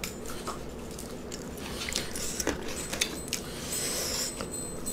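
Close-miked chewing: crisp crunches and small wet clicks of food being chewed, a few louder crunches in the second half.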